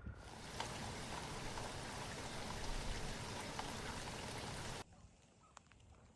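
Steady rain falling, a dense even hiss with individual drops ticking through it; it cuts off suddenly near the end, leaving only faint scattered ticks.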